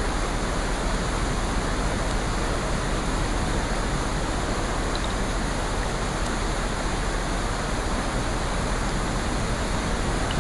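Steady rushing water noise, even and unbroken, with no swells or pauses.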